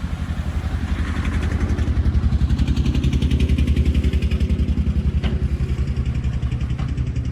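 Diesel engine of heavy earthmoving equipment running with a fast, even throb, growing a little louder about two seconds in and easing toward the end. There is a single sharp click about five seconds in.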